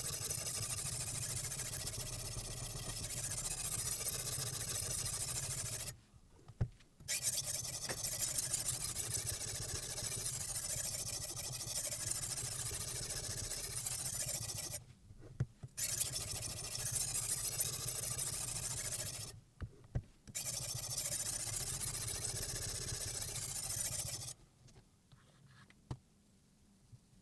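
Silicon carbide water stone scraping along the steel edge of a knife clamped in a guided sharpening system, a continuous gritty rasp. It breaks off three times with a few clicks before resuming, and stops near the end.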